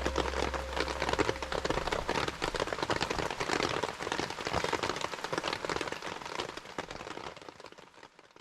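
Rain pattering: a dense, continuous spatter of drops that fades out near the end.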